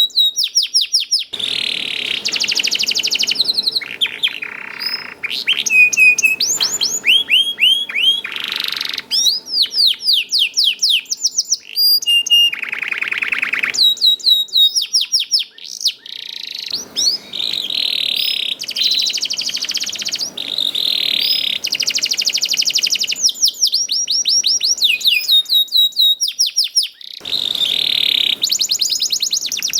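Domestic canary singing a long, loud song: runs of rapid down-sweeping whistled notes repeated several times a second, alternating with dense buzzy rolls, with a few brief pauses.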